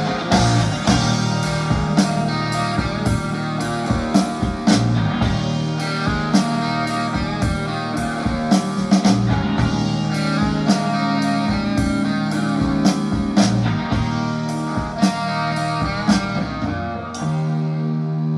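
Instrumental rock music with electric guitar and a steady drum beat, played back through a hi-fi system of an AGD amplifier and Fischer&Fischer speakers.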